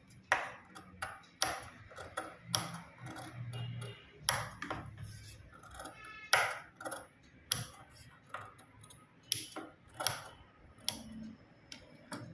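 Fabric scissors snipping a row of small slits into the stitched seam allowance of a lined blouse piece. The sharp metallic snips come irregularly, about one every half second to a second.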